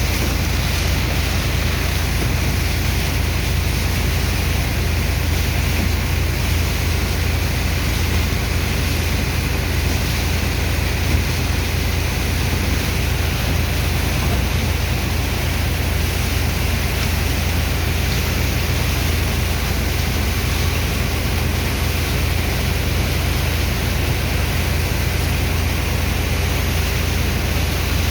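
Dredger's engine and water pump running steadily while pumping out sand slurry: a constant low drone under an even rushing noise of water and sand, unchanging throughout.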